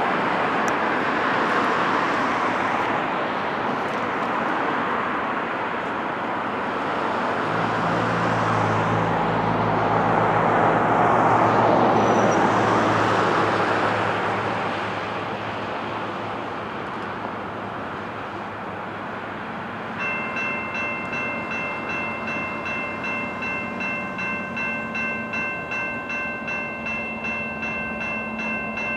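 Distant freight train approaching, heard as a steady rushing rumble with a low drone partway through. About 20 seconds in, a railway crossing bell starts ringing in steady, evenly spaced strokes, warning of the oncoming train.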